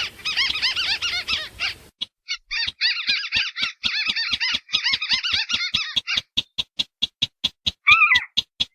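Recorded lure calls of a white-browed crake mixed with a sintar rail. A fast chattering run of high notes breaks off briefly about two seconds in and resumes, then from about six seconds gives way to separate sharp notes at about five a second, with a short falling call near the end.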